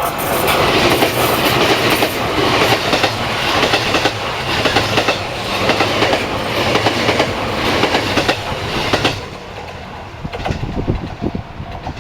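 A train passing close by on the track, its wheels clacking rhythmically over the rail joints, loud for about nine seconds and then dropping away sharply as the last car goes by.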